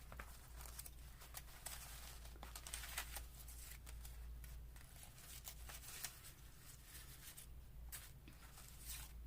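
Faint paper rustling with light scattered clicks as paper cutouts are handled and sorted, over a low steady hum.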